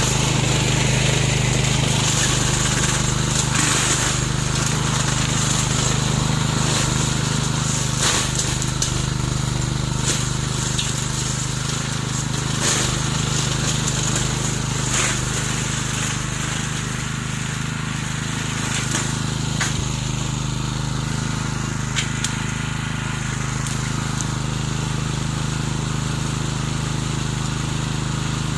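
A homemade remote-control lawn mower running steadily, with a few sharp ticks or knocks scattered through it.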